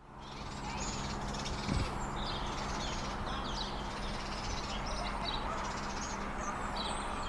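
Birds calling and chirping repeatedly over a steady low hum, with one low thump about two seconds in.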